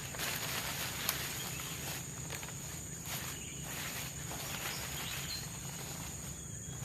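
Steady high-pitched insect drone of the tropical forest, with irregular rustling and footstep-like noises and a sharp click about a second in.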